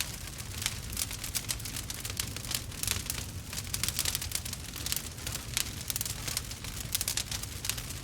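Wood fire burning, with a dense, irregular crackle and pops over a low rumble.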